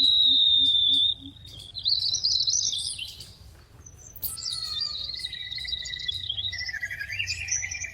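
Small bird chirping and whistling in high tweets: a long held whistle for about the first second, then a wavering warble, and after a short lull a steady high whistle with a lower second tone.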